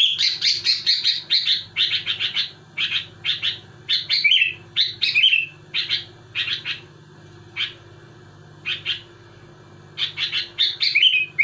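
Sooty-headed bulbul (kutilang) singing: rapid strings of short, sharp chirps packed closely together, with a few slurred whistled phrases, thinning to single notes for a few seconds past the middle before a dense run near the end. A steady faint low hum lies underneath.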